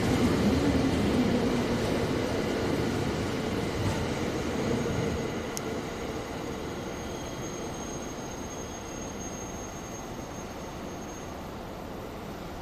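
JR West 227 series 500 electric train, two sets coupled, pulling out of the station: its last car rumbles past on the rails, then the running noise fades steadily as the train recedes down the line. A single sharp click comes about five and a half seconds in, followed by a thin high steady tone lasting several seconds.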